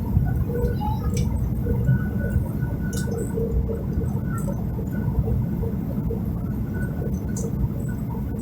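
Steady low rumble of a jet airliner's cabin with the engines running, a faint hum over it and a few light clicks.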